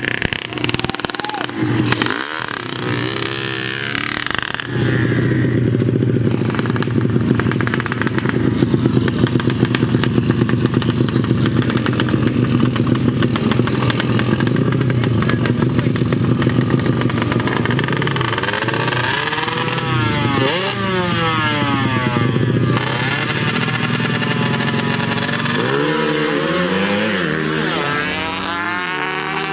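Underbone drag motorcycles' engines revving hard at high rpm, with the pitch climbing and falling repeatedly as they rev and pass by.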